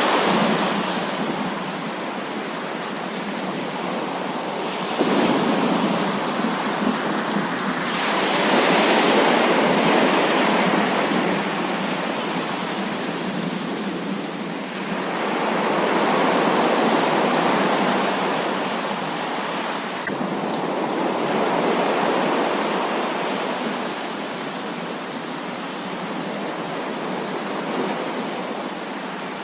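Heavy rain in a thunderstorm: a steady, dense hiss of rainfall that swells louder several times in long waves of thunder, with a sudden rise about five seconds in.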